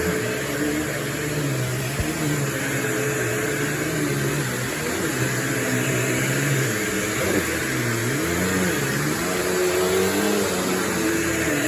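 Bissell PowerForce Turbo bagless upright vacuum cleaner running, its motor tone wavering up and down in pitch.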